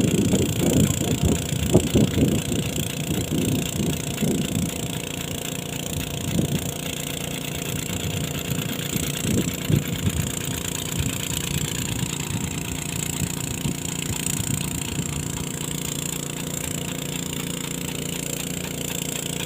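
Small petrol engine water pump running steadily, with irregular louder bursts over the first few seconds before it settles to an even drone.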